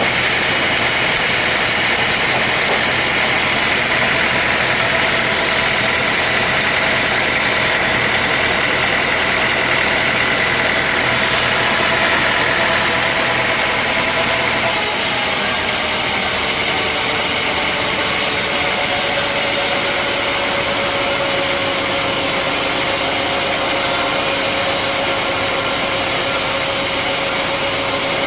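Sawmill machinery running steadily with an engine-like drone and a steady whine, the whine changing pitch about halfway through.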